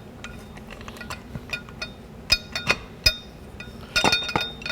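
Steel parts of a 4L60E transmission's input drum clinking as the sprag assembly is jiggled and rotated to line up with the clutch frictions. Sharp clinks with a short ring: a few about two to three seconds in, and a cluster near the end.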